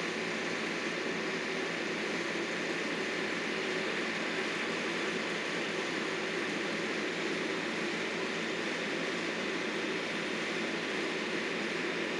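Engine of landscaping machinery running at a steady speed, a constant drone with no changes.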